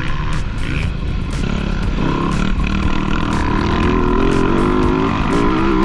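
Dirt bike engine running hard on a motocross track, its pitch climbing as it revs up in the second half, over a steady rumble and wind noise.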